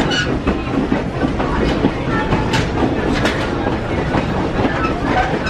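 Open-air passenger railroad car rolling along the track: a steady rumble of wheels on rail, with creaking and moaning and occasional sharp knocks as the car rocks and wobbles.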